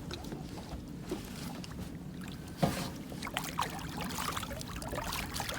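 Water sloshing and trickling as a caught redfish is handled for release, with one sharp knock a little over two and a half seconds in and scattered small clicks after it.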